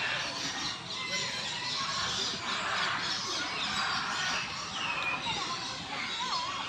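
A dense chorus of many birds chirping and chattering at once, with a few clearer sliding calls near the end.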